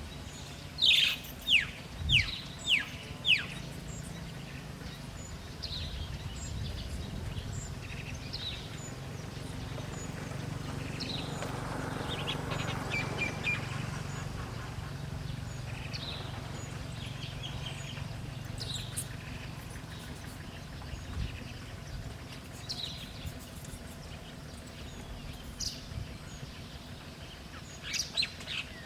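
Wild birds chirping outdoors: a run of four quick, downward-sweeping chirps about a second in, then scattered single chirps. Under them is a steady low hum that grows louder in the middle.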